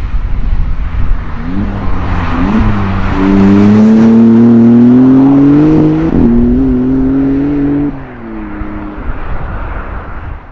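Maserati MC20 Cielo's twin-turbo V6 accelerating hard, its engine note climbing steadily, with a quick gear change about six seconds in. Near the end the note drops in pitch and becomes quieter.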